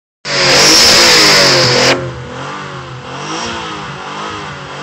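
Nissan 300ZX's V6 engine revving hard for about two seconds, then dropping back to a quieter, unsteady idle, as it burns off a Seafoam treatment with heavy exhaust smoke.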